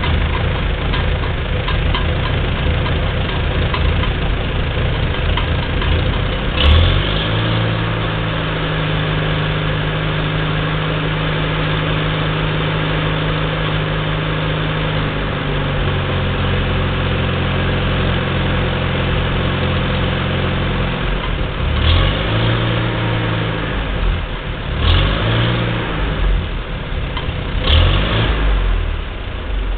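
1941 Farmall B tractor's four-cylinder gasoline engine running. It revs up about a quarter of the way in and holds the higher speed. It then drops back and is blipped up and down three times near the end.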